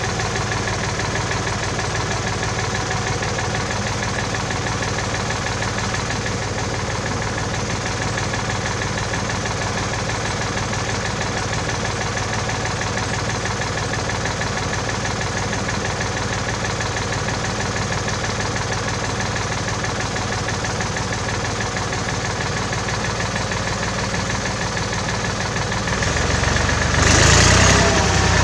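1967 David Brown tractor engine idling steadily. Near the end it gets louder, with a brief surge a second later.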